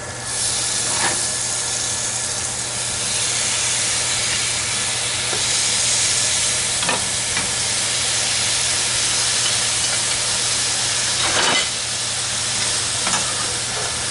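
Boneless chicken thighs sizzling in hot bacon fat with onions, peppers and paprika, the sizzle jumping up sharply just after the start as the chicken goes back into the pan. A few short knocks and scrapes of a utensil stirring and moving the pieces.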